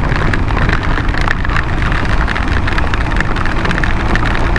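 Motorcycle engine running steadily while riding in heavy rain, with many small ticks of raindrops hitting the microphone.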